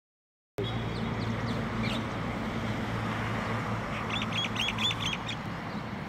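Bird calls: a few short high chirps near the start, then a quick run of about five repeated harsh notes around the four-second mark, over a steady low hum.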